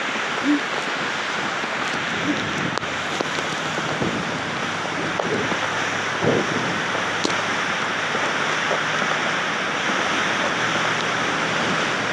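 Strong storm wind rushing steadily, an even hiss with a couple of faint soft thumps.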